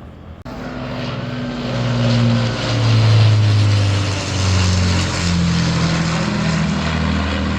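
Avro Lancaster bomber's four piston engines droning overhead, starting abruptly about half a second in, swelling to its loudest around the middle and holding steady with slowly shifting pitch.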